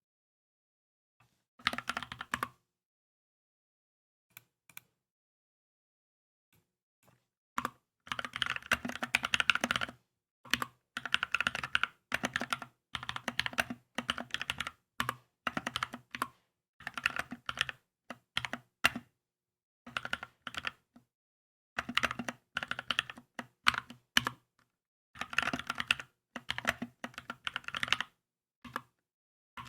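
Typing on a Keychron K2 mechanical keyboard: a short flurry of keystrokes, a few lone key presses, then from about eight seconds in fast runs of typing broken by brief pauses.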